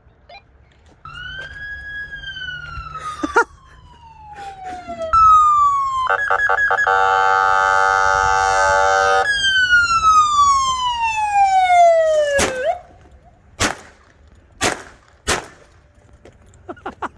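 Electronic police siren sounding in long falling sweeps, with a few seconds of fast pulsing tone in the middle, then cutting off. Three sharp bangs follow in quick succession near the end.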